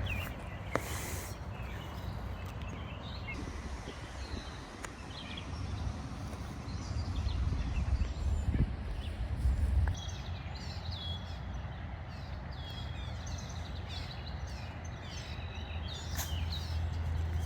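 Outdoor background noise: a steady low rumble with faint birds chirping, the chirps coming more often in the second half.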